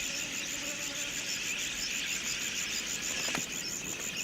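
Insects chirring in a steady, rapid pulse, about six beats a second, over a constant high hiss.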